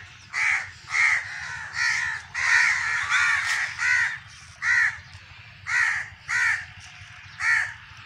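A bird calling over and over: about a dozen short calls, close together in the first half and sparser after, over a faint low steady hum.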